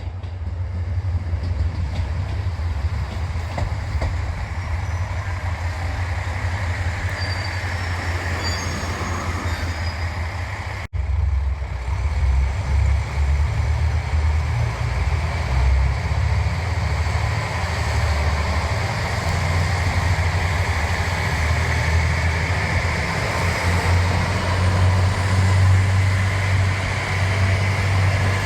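Rail vehicle running on the tracks: a steady low rumble that cuts abruptly about eleven seconds in and comes back heavier and more uneven.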